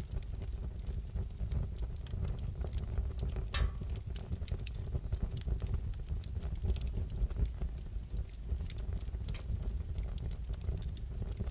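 Wood fire crackling in a fireplace: scattered sharp snaps and pops over a steady low rumble, with one louder pop about three and a half seconds in.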